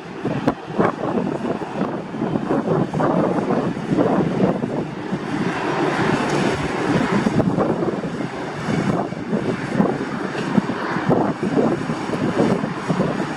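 Airliner engine noise, a loud continuous rumble with a hiss that swells around the middle, mixed with wind buffeting on the microphone.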